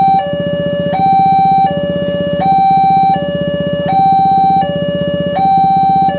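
Railway level-crossing warning alarm sounding a two-tone electronic signal, a higher and a lower tone alternating about every three-quarters of a second over a low buzz. It warns that a train is approaching and the crossing barrier is down.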